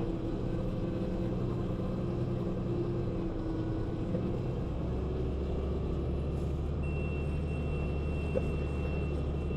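International 1586 tractor's six-cylinder diesel engine running steadily under load while pulling a corn planter through soft ground. The low drone changes slightly about halfway through, and a thin steady high tone sounds over it for the last few seconds.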